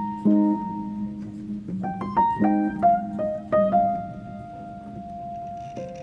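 Background piano music: gentle chords and single notes, with a long held note near the end.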